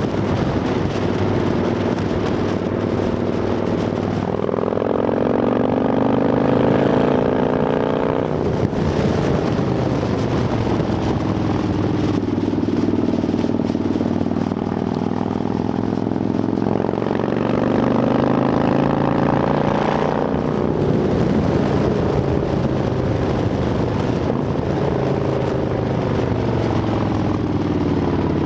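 Harley-Davidson Dyna Fat Bob's 45-degree V-twin running through Vance & Hines Shortshots exhaust with quiet baffles. The engine speed climbs and falls away twice, about four seconds in and again midway.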